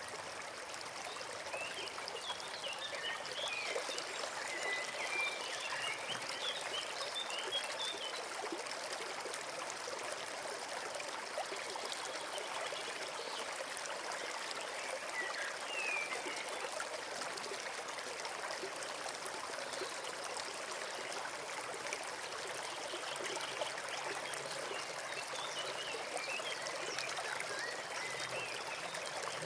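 A small forest brook trickling and babbling steadily, with short high bird chirps at intervals: a flurry in the first several seconds, a single call midway, and more near the end.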